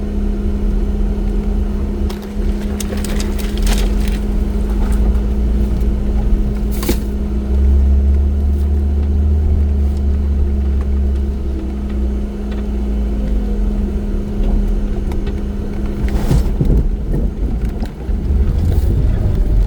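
Off-road vehicle engine running with a steady low drone and hum, growing heavier for a few seconds in the middle. A few sharp knocks and clatters come through, the clearest about 4, 7 and 16 seconds in.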